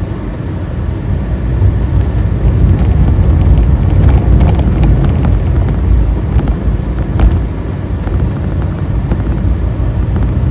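Road noise from a moving vehicle: a steady low rumble with many irregular sharp clicks and knocks, thickest from about two seconds in.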